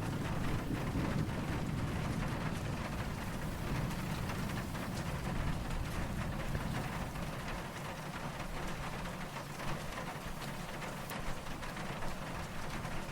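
Steady rain falling with soft, distant thunder rumbling low beneath it; the rumble eases off in the second half.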